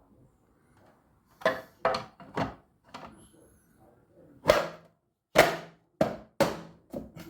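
A series of about ten sharp knocks and thunks at uneven intervals, a couple of them louder than the rest.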